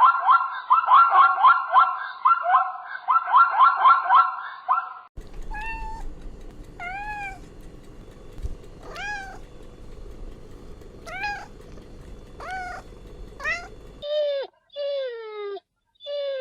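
Cats meowing. First comes a quick run of high meows for about five seconds, then single meows roughly once a second over a low hum, and near the end a few short meows that fall in pitch.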